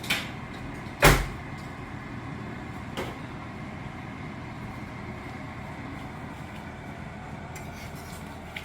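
A single sharp knock about a second in, with softer knocks at the start and about three seconds in, over a steady low rumble.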